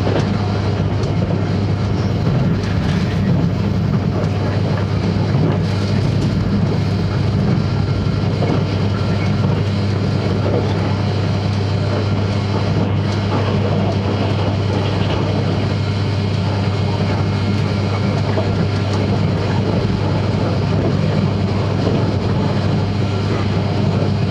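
Cabin noise inside a JNR 583 series electric train running at speed: a steady rumble of wheels on rail with a constant low hum underneath.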